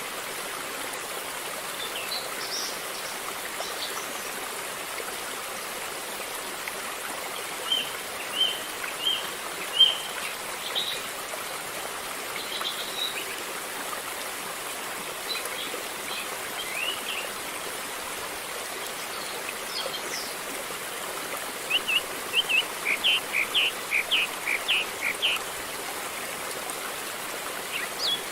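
A river flowing steadily, with birds chirping over it: a few short calls about eight to thirteen seconds in, and a quick run of chirps a little over twenty seconds in.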